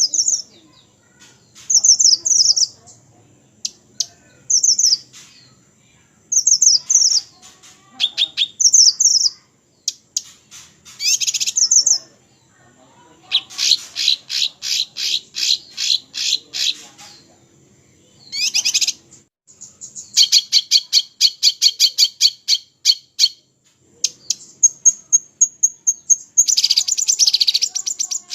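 Small songbirds singing: short, sharp high chirps in the first half, then several long runs of quick repeated notes at about four a second.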